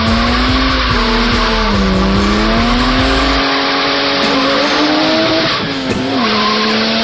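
BMW E30 with a 3.8-litre S38 straight-six running hard while drifting, its tyres squealing. The engine note sags about two seconds in, climbs again, and dips briefly near the end.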